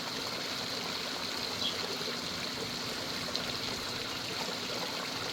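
Running water of a koi pond trickling steadily.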